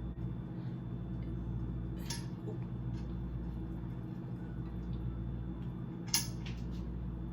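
Vegetable oil in a skillet with water still in the pan, giving two brief sharp pops, about two and six seconds in, over a steady low hum.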